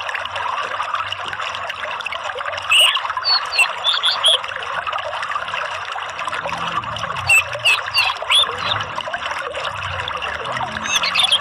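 Steady trickling, flowing water, with clusters of short high bird chirps about three seconds in, again around seven to nine seconds, and near the end.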